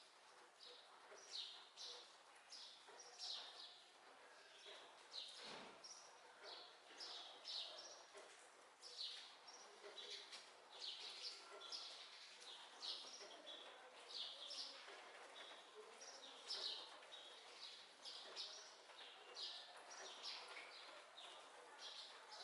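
Small birds chirping, faint, with short high chirps repeating a few times a second. A single sharp click sounds about five and a half seconds in.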